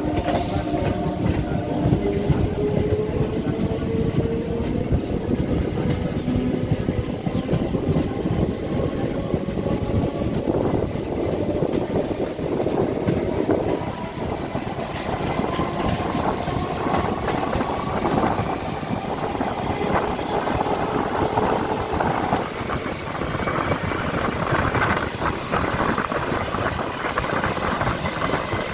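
EMU local train running along the track, heard from an open coach door: a dense clatter of wheels on the rails, with the electric motors' whine rising steadily in pitch as the train gathers speed.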